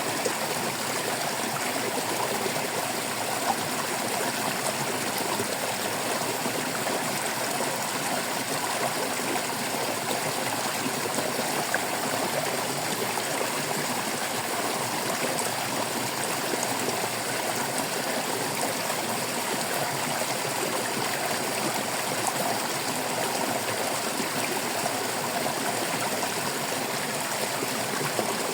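Shallow stream water babbling and trickling over rocks, a steady, unbroken rush with fine splashing.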